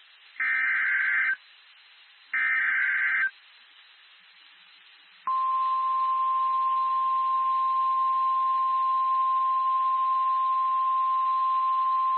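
NOAA Weather Radio emergency alert signal: two one-second bursts of warbling digital SAME header data about a second apart, then, after a pause of about two seconds, the steady single-pitch 1050 Hz warning alarm tone starting suddenly about five seconds in and holding. It signals that a warning broadcast, here a flash flood warning, is about to be read.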